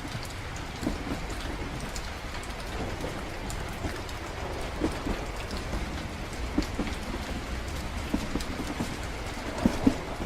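Ambient soundscape of rain against a train's windows over the steady low rumble of a moving train, with scattered louder drop ticks, more of them near the end.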